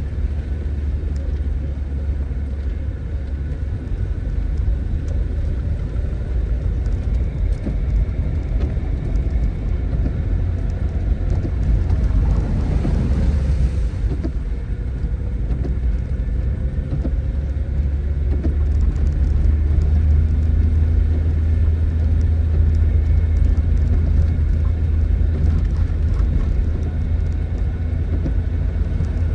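Tofaş Doğan SLX's engine idling steadily in the rain, a deep hum under the patter and hiss of falling rain. About halfway through, a brief rushing swell rises and fades.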